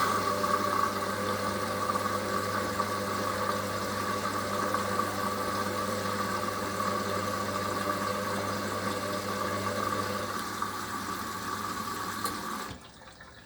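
Hoover HLW585DC washer dryer turning its drum through a full load in the wash phase of a rapid 14-minute cycle: a steady motor hum with a high whine. The motor stops abruptly near the end, leaving the faint sound of water.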